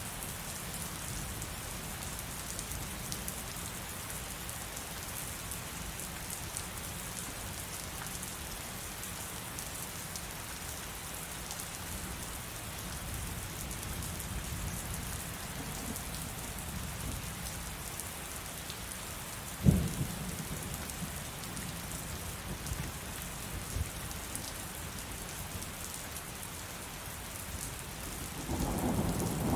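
Heavy rain falling steadily, with a single sharp thunderclap about two-thirds of the way through and rolling thunder starting to build near the end.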